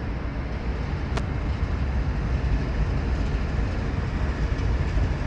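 Two CSX diesel locomotives running light in the distance, a steady low rumble, with one brief click about a second in.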